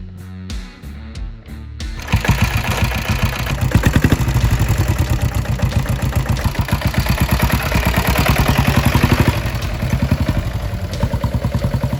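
Guitar music, then about two seconds in the Sooraj motorcycle's single-cylinder Lombardini 325cc diesel engine starts and runs loudly with a rapid, even beat.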